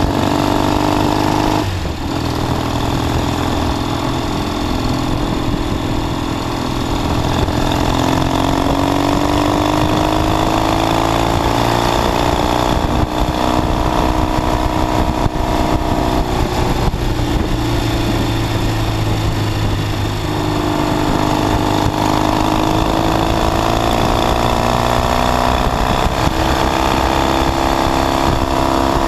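1969 Triumph T120 Bonneville's 650cc parallel-twin engine running under way. Its pitch climbs, holds, falls and climbs again with the throttle, with brief breaks about two seconds in and around thirteen seconds.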